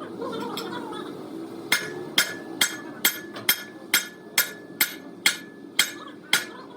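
A hammer striking metal in a steady rhythm, about two blows a second for a dozen blows starting nearly two seconds in, each blow with a short metallic ring.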